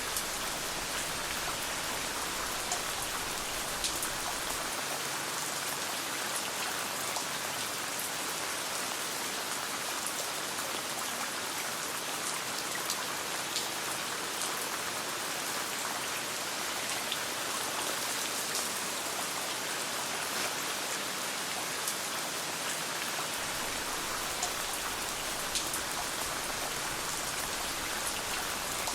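Steady rain falling, an even hiss with scattered sharp ticks of individual drops and pops.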